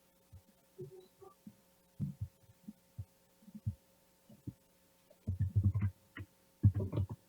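Irregular low, muffled thumps over a faint steady electrical hum; the thumps come thicker and louder in the last two seconds.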